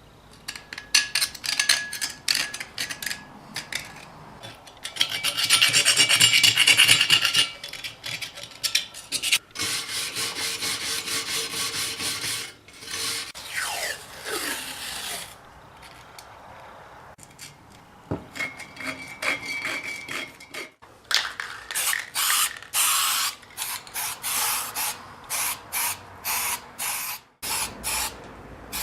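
Repeated rubbing and rasping strokes from hand work on the 1940 Hercus lathe's parts. They come in runs of quick, even strokes broken by short pauses, and the loudest run falls about five to seven seconds in.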